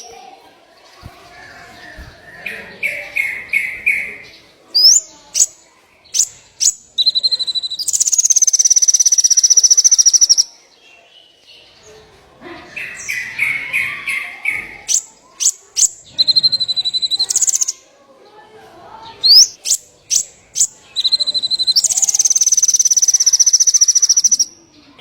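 A small songbird's song used as masteran for murai, in phrases that repeat about every ten seconds: a quick run of notes, a string of sharp rising chips, then a long high trill.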